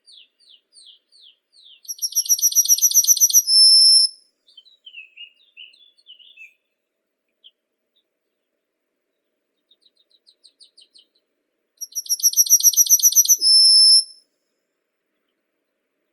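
A songbird singing two song phrases about ten seconds apart. Each phrase is a fast trill of repeated notes ending in a short held high note, with soft, scattered chirps before and between them.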